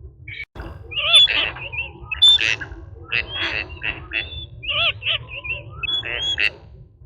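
A bird calling over and over in short, high, arching calls, over a steady low rumble.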